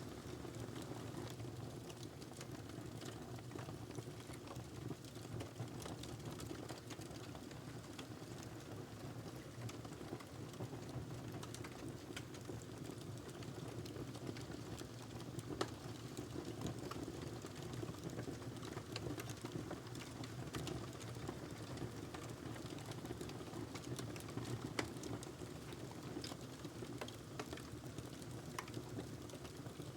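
Wood fire burning in a fireplace: a steady low rumble and hiss with frequent small crackles and snaps, and a couple of louder pops in the second half.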